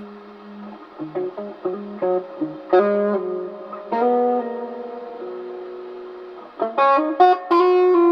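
Guitar, probably electric and run through effects, playing a slow, spacey passage. A series of plucked single notes comes about a second in, then two louder chords that ring on. Near the end a quick cluster of notes settles into one long held note.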